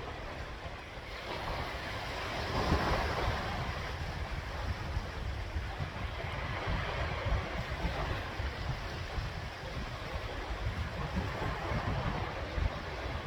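Sea waves washing in and breaking, with one swell loudest about three seconds in, and wind buffeting the microphone.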